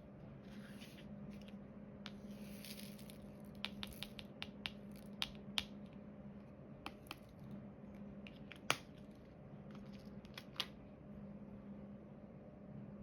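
Small sharp clicks and taps of diamond painting work: a drill pen picking up resin drills and pressing them onto the sticky canvas, irregular and a few per second, the loudest about nine seconds in. Two short rustles come in the first three seconds, over a steady low hum.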